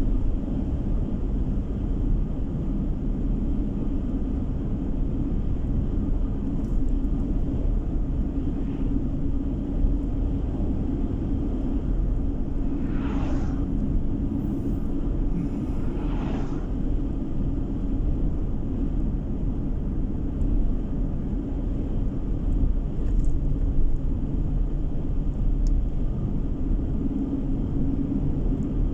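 Steady road and engine noise heard inside a moving car's cabin: a continuous low rumble of tyres on the road. Two brief swishes come about halfway through, a few seconds apart.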